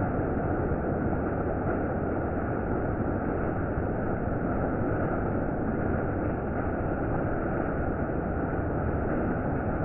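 Heavy monsoon rain falling, a steady, unbroken noise.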